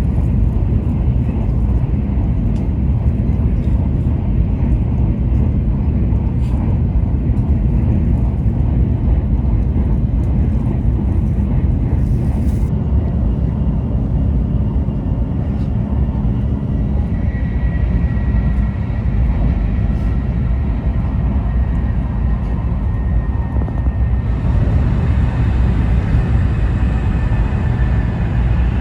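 Taiwan High Speed Rail bullet train running at speed: a loud, steady low rumble of the ride, with a faint high tone joining about halfway through and more hiss near the end.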